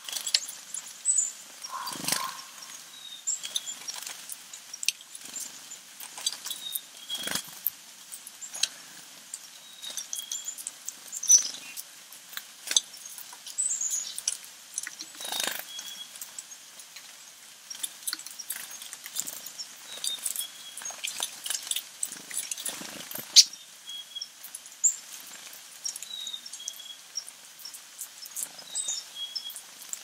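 Small backyard birds calling in winter: short high chirps and call notes scattered throughout, mixed with frequent sharp clicks and taps.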